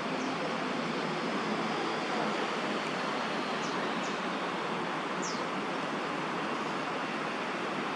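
Steady rushing background noise of distant city traffic around the park, with three faint, short, high chirps from small birds about halfway through.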